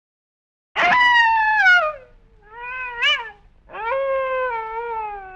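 Wolf howling in three calls: a loud falling call, a short call that rises and falls, then a longer call that slowly falls in pitch and runs on past the end.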